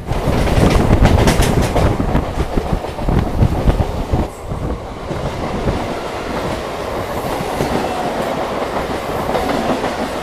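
Local passenger train running on the rails, wheels clattering over rail joints for the first few seconds, then settling into a steadier rumble. The sound starts suddenly and loud.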